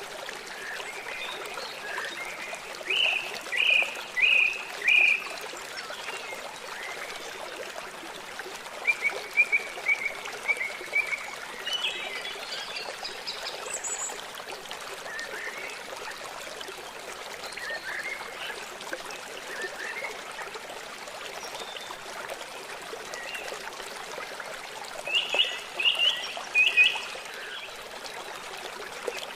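Birds calling in short runs of four or five quick chirps, several times over, with single chirps between. Under them, a steady rush of running water.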